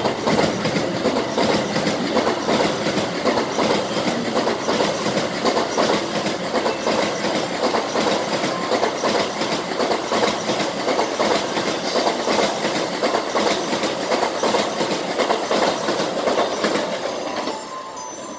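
N700A Shinkansen train passing at moderate speed, a steady loud rumble with dense rhythmic wheel clatter on the rails, fading near the end as the last cars go by.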